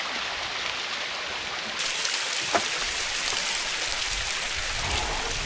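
Water from a tall waterfall rushing and splashing onto rocks: a steady, dense hiss like heavy rain, with a single sharp click about two and a half seconds in.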